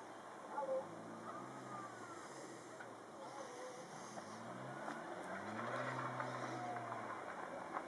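Car engine revving in two rising pulls, the second higher and held for about two seconds before dropping, as the car strains to get free of deep snow.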